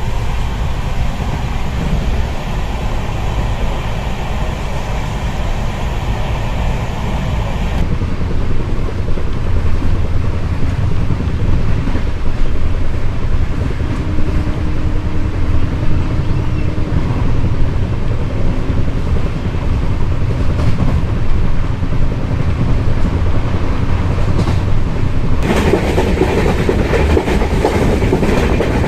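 Passenger train heard from on board while it runs along the line: a steady rumble of wheels on rail with some clickety-clack. About eight seconds in the sound turns duller, and near the end it turns brighter again.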